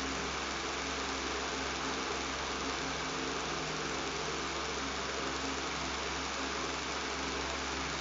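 Electric fan running steadily: an even whooshing noise with a low motor hum underneath.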